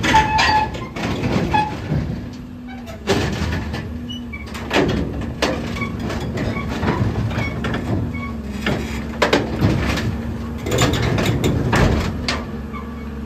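A heavy machine's engine running with a steady hum, and repeated knocks and metal clanks at irregular intervals over it.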